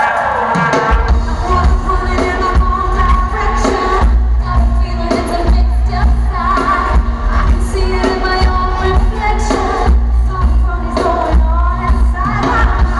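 Live pop music played loud through an arena sound system, with women singing over it and a heavy bass line that comes in about a second in; a crowd is heard faintly under the music.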